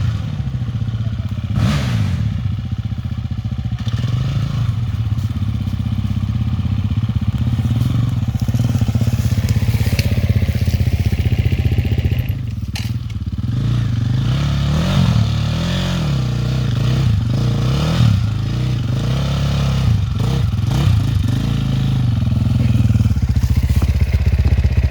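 Motocross dirt-bike engines running hard, their pitch repeatedly rising and falling as the throttle opens and closes.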